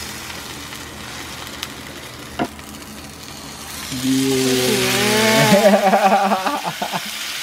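A consomé-dipped tortilla taco frying and sizzling in a nonstick pan as it is turned with tongs, the sizzle growing louder about halfway through. There is a single tap about two and a half seconds in. A pitched hum, steady at first and then wavering, sits under the sizzle in the second half and is the loudest part.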